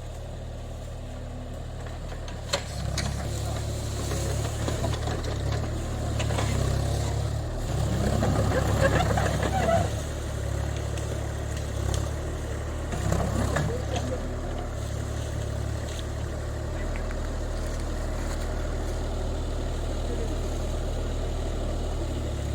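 JCB 30 Plus mini excavator's diesel engine running steadily while working, growing louder a few seconds in and rising under load with pitch glides between about eight and ten seconds and again around thirteen seconds. A single sharp knock comes about two and a half seconds in.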